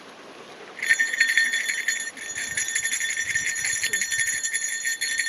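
A bear bell jingling continuously with rapid little strikes, starting about a second in.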